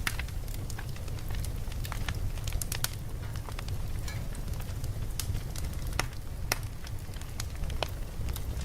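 Campfire crackling, with frequent irregular sharp pops over a steady low rumble.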